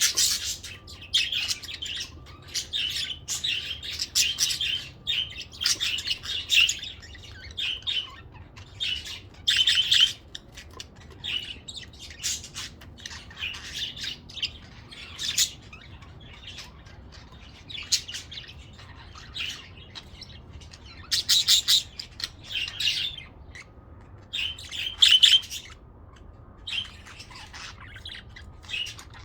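Several pet budgerigars chirping and chattering in irregular bursts of short, high notes.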